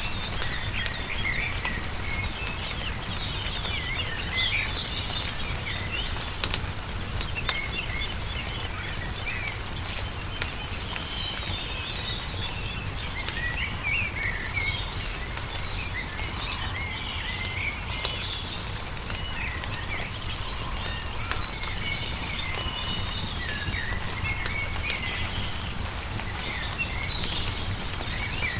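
A wood fire crackling, with frequent sharp pops, while small songbirds chirp and sing over a steady low rumble.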